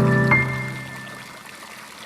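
Gentle piano music, one last high note struck about a third of a second in and dying away, over a faint trickle of running water.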